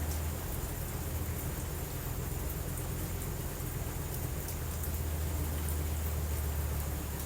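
Steady rain with a low rumble of distant thunder that fades about half a second in and swells again past the middle, and scattered faint crackles of a fireplace.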